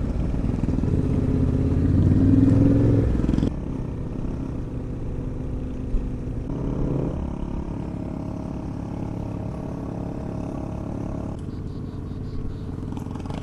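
Adventure motorcycle engine under way on a dry creek bed. It revs up about two seconds in, drops off abruptly at about three and a half seconds, then runs steadily at lower revs.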